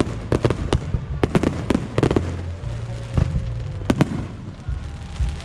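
Aerial fireworks bursting: a rapid, irregular series of sharp bangs, some in quick clusters, over a steady low rumble.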